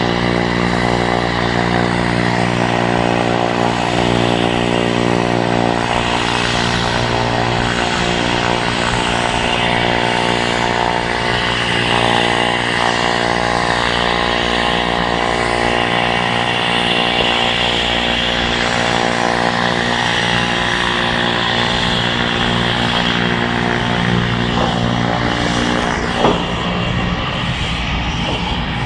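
Turbine aircraft engine running steadily, heard as a droning stack of steady tones. A brief sharp knock comes about 26 seconds in.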